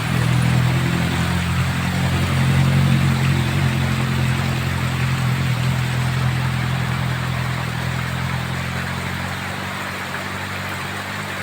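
A vehicle engine pulling steadily up a steep grade as it passes, loudest about three seconds in and slowly fading, over the steady hiss of heavy rain.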